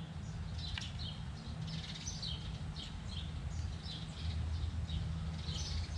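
Small birds chirping again and again, short high calls, over a low steady hum.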